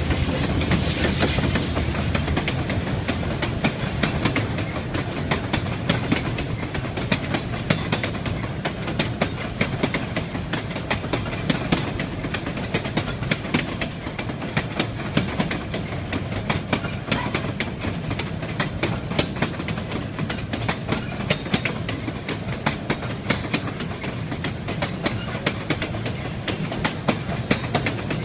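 Railway train running on the rails: a steady rumble with a continuous, irregular clatter of wheel clicks over rail joints.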